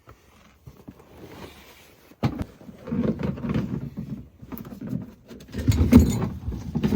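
Irregular knocks, thumps and rustling of gear being handled at a vehicle, the loudest thump about six seconds in.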